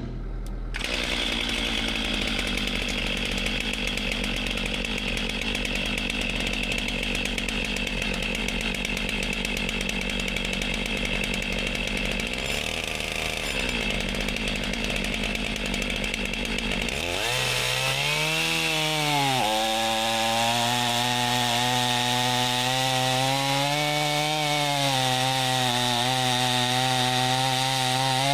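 A small engine running hard with a steady buzz; about two-thirds of the way in it becomes a clearer pitched drone whose pitch dips and recovers twice, as if bogging under load.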